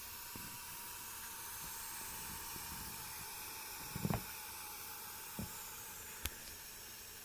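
Steady hiss with a faint steady tone, broken by a few soft knocks in the second half.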